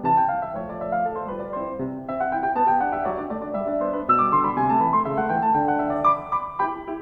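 Background piano music: a solo piano playing a flowing melody over chords.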